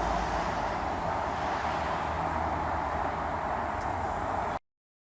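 Steady hiss of blizzard wind and street noise with a low engine hum underneath, cutting off abruptly near the end.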